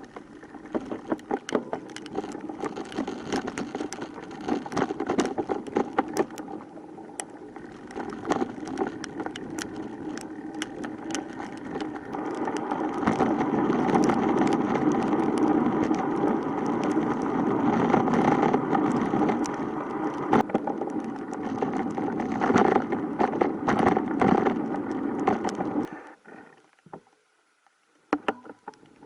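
Steady rushing noise with many rattling clicks, growing louder partway through and cutting off suddenly near the end.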